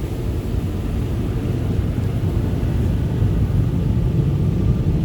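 Steady low rumble of tunnel car wash machinery heard from inside the vehicle's cabin, growing slightly louder toward the end as the vehicle nears the air dryers.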